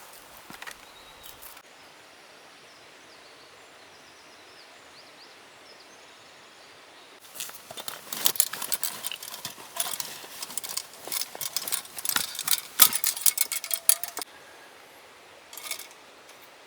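Quiet outdoor background with a steady faint hiss, then about seven seconds in, some seven seconds of dense, irregular clicking and rustling, with one brief burst of it near the end.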